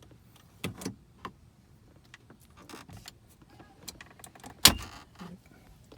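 Plastic center dash trim being pried up with a pry tool: scattered small clicks and creaks, with one loud sharp snap about three-quarters of the way through.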